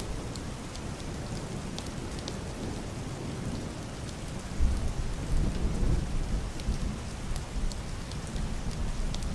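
Heavy rain falling steadily on a slanted roof and window glass, with single drops ticking out of the hiss. About halfway through, a deep, muffled roll of distant thunder swells in and rumbles on under the rain.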